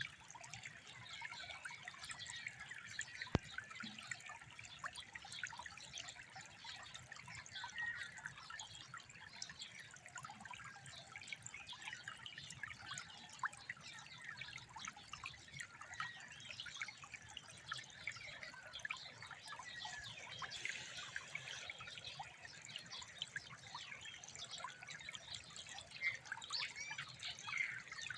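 Water trickling and burbling steadily, with a faint patter of small splashes. A single sharp click comes about three seconds in.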